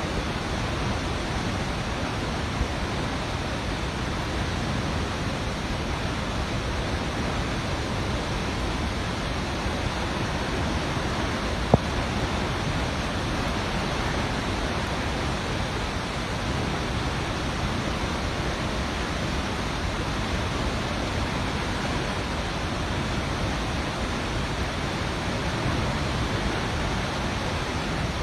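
Waterfall rushing: a steady, even wash of falling water, with one sharp click about twelve seconds in.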